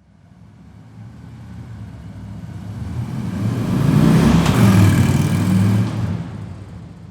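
Motorcycle driving past: its engine grows steadily louder, is loudest about four to six seconds in, then fades away.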